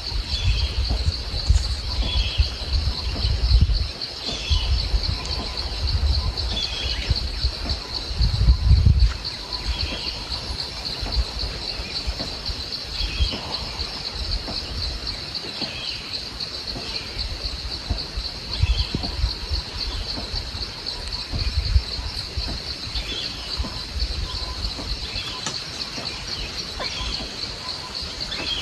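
Forest ambience after rain: insects keep up a steady high buzz while a bird repeats a short call about every two seconds. Low wind rumble hits the microphone in gusts during the first nine seconds, strongest just before the ninth second.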